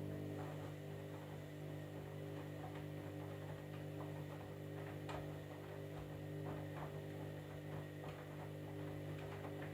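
Candy washing machine running with a steady, even motor hum, with faint irregular clicks and ticks over it.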